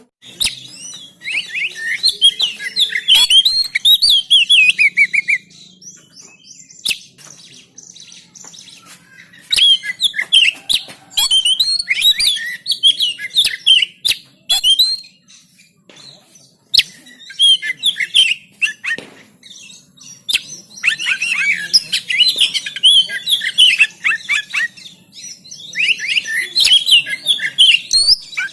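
Oriental magpie-robin (kacer) singing in several phrases of rapid, varied, high chattering and whistled notes, with short pauses between phrases and a few sharp clicks.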